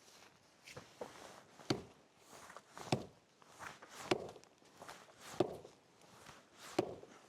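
Footsteps: a run of about ten uneven steps, each a short knock.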